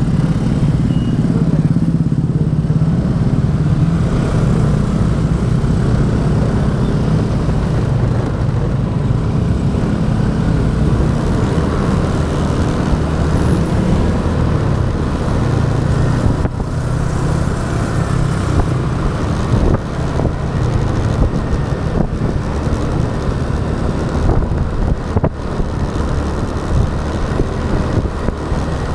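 Motorbike engine running steadily while riding, its drone holding fairly even, with road noise around it.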